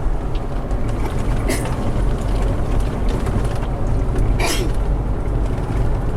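Inside a moving car: steady engine and tyre rumble, with two short rattles or knocks about a second and a half in and again near four and a half seconds.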